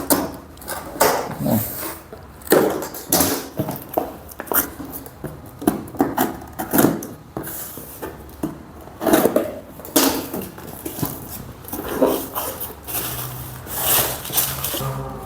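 A parcel being opened and unpacked by hand: irregular rustling, scraping and knocks of packaging being torn and handled. A faint low hum starts near the end.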